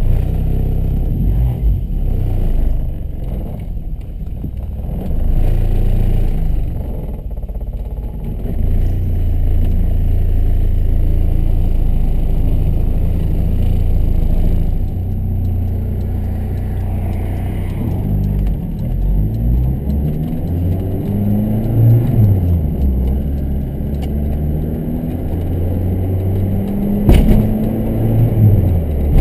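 1982 Volkswagen Scirocco's four-cylinder engine running on its aftermarket Techtonics exhaust, heard from inside the cabin. It runs fairly steadily at first, then rises and falls in pitch again and again as the car pulls away and accelerates. There is a single sharp knock near the end.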